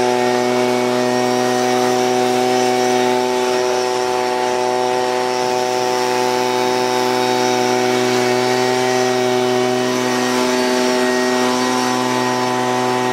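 Gas-powered handheld leaf blower's two-stroke engine running at a steady high throttle, one even engine note, as it blows dust out of a car's interior.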